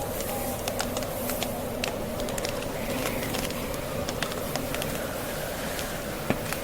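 Wood fire crackling, with irregular sharp pops from the burning logs, one of the louder ones near the end, over the steady howl of blizzard wind.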